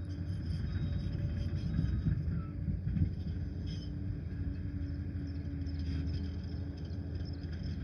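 Liebherr 746 crawler dozer's diesel engine running steadily, with a sharp clank about three seconds in.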